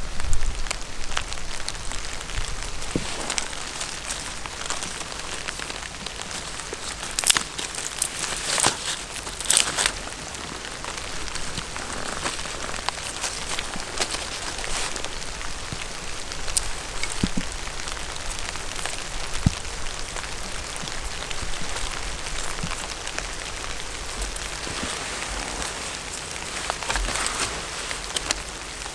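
Steady rain pattering with many small drop ticks. A few louder sharp taps and rustles come about seven to ten seconds in.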